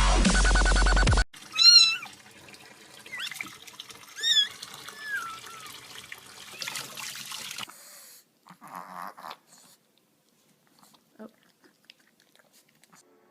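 Electronic dance music that cuts off about a second in, then a domestic cat meowing several times in high, wavering calls. A brief burst of noise follows later, then only faint clicks.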